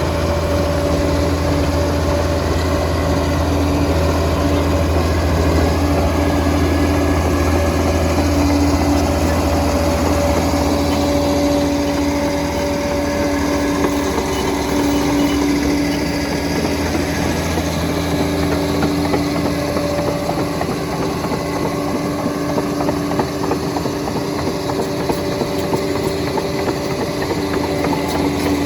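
Liebherr PR 746 crawler dozer's diesel engine running steadily with a strong low drone. About halfway through, a fast rattle of short clicks joins it.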